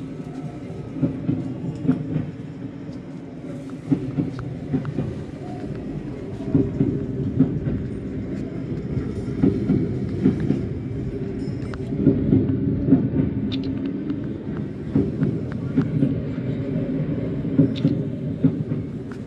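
Steady rumble and rattle of a train running on rails, with small irregular knocks throughout.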